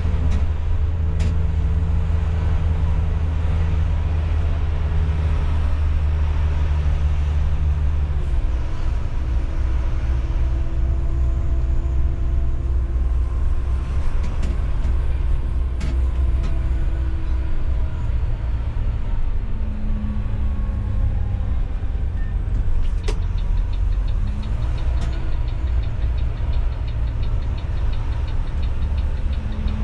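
Intercity coach bus engine running as the bus is driven, a deep steady hum whose note drops about a third of the way in and then rises and falls slowly. A few sharp clicks come through, and in the last few seconds a fast, even ticking starts.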